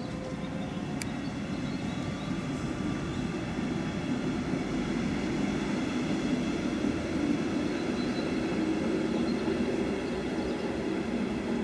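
Metronom double-deck regional train moving slowly through the station: a steady rumble that grows gradually louder, with faint steady high tones above it and a single short click about a second in.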